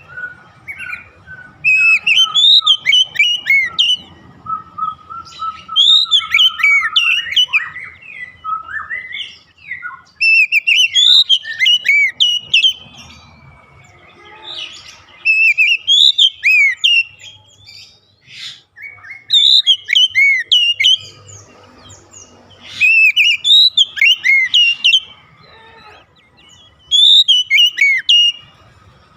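Oriental magpie-robin singing in loud phrases of quick, rising and falling whistled notes. The phrases repeat every few seconds with short pauses between them.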